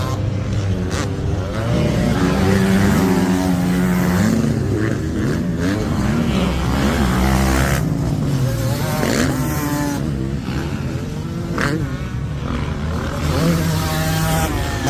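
Motorcycle engines revving, their pitch climbing and falling again and again through gear changes.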